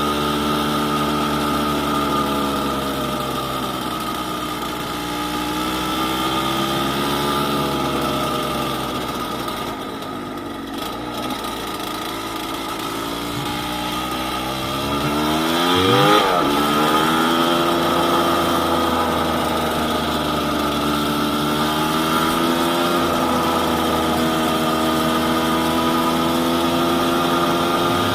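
Yamaha DT200WR's single-cylinder two-stroke engine running while ridden, its pitch rising and falling with the throttle. It eases off about ten seconds in, then revs up sharply and drops back about sixteen seconds in.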